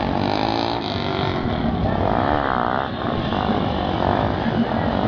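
Motorcycle engines running.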